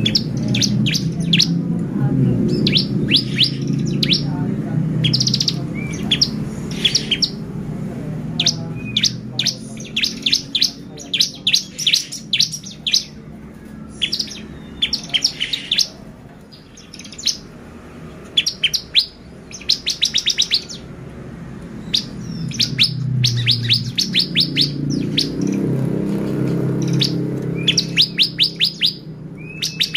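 Bar-winged prinia (ciblek) singing in full, energetic song: repeated bursts of rapid, sharp chirping notes strung into fast trills, every second or two. A low rumble in the background swells near the start and again in the last third.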